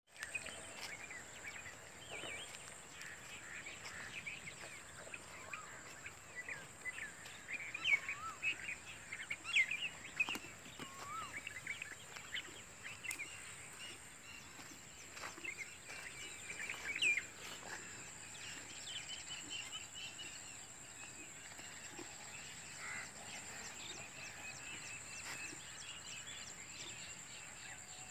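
Rural outdoor ambience with small birds chirping and calling, busiest in the first half, over a steady high-pitched whine.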